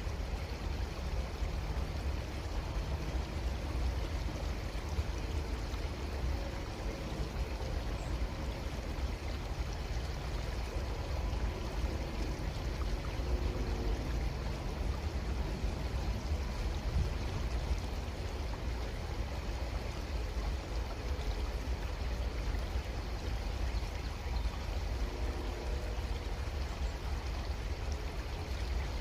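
Creek water running steadily, a constant trickling rush with a strong low rumble beneath it.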